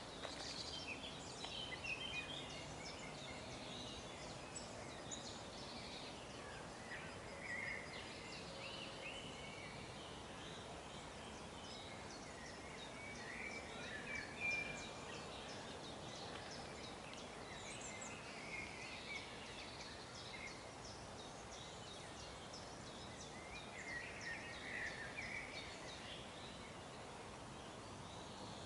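Birds chirping and calling in short, scattered notes over a steady background hum of outdoor ambience.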